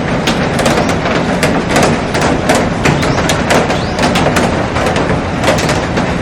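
Heavy rain falling on a glass roof and garden: a steady dense hiss with many sharp drop impacts tapping through it.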